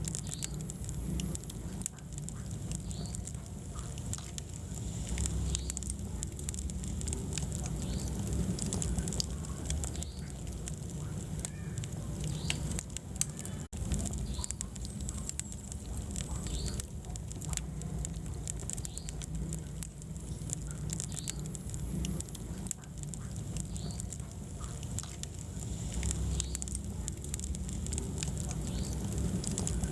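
Wood fire burning in a fireplace: continual irregular crackles and small pops over a steady low rumble of the flames.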